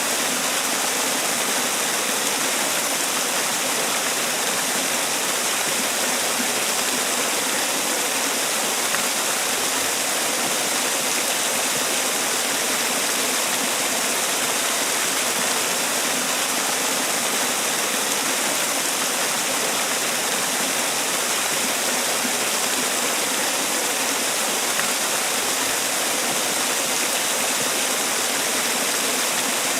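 Man-made waterfall: water falling and splashing steadily in an even, high-pitched rush.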